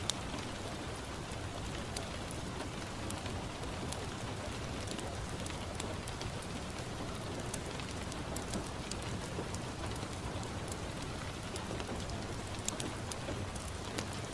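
Steady rain falling on a window, with scattered sharp pops and crackles from a wood fire in a fireplace.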